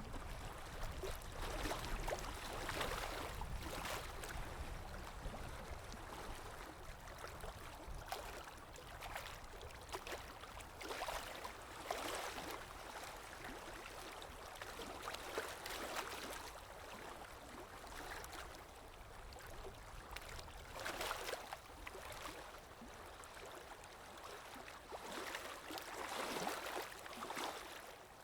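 Underwater water ambience: muffled rushing and gurgling over a low rumble, swelling and fading about five times.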